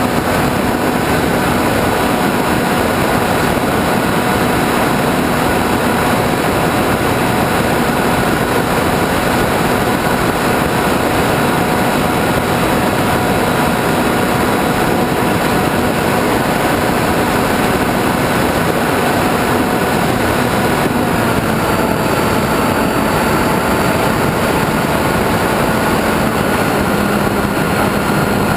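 Radio-controlled airplane's motor and propeller running at a steady cruise throttle, heard from the onboard camera under heavy rushing wind. The motor's pitch shifts slightly about two-thirds of the way through and dips again near the end.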